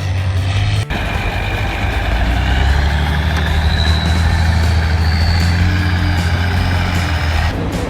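Engine of a heavy off-road trial truck running steadily at an even pitch. The sound breaks off sharply for a moment about a second in.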